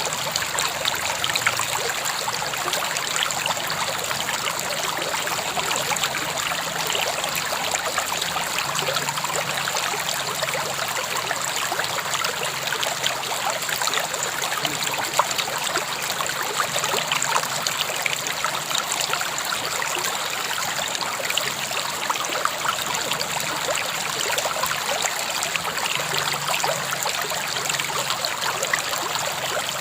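River water flowing steadily over stones, a continuous babbling rush with fine splashing and trickling throughout.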